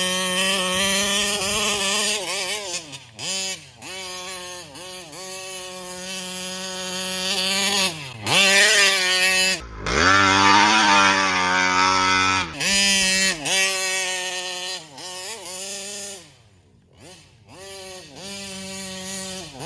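Taylor 35cc reed-valve two-stroke engine of an RC car revving up and down over and over, with two longer high-rev runs about halfway through and a drop to low revs near the end before it picks up again. The owner suspects the carburetor is starving it of fuel at high revs, so it won't get up on the pipe.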